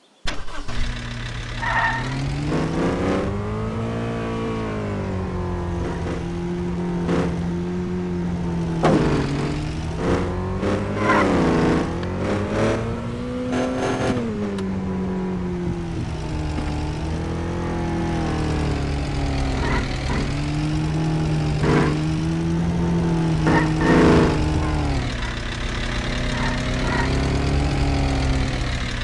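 Truck engine starting and running, revved up and down in slow sweeps several times between spells of steady running, with a few sharp clicks scattered through.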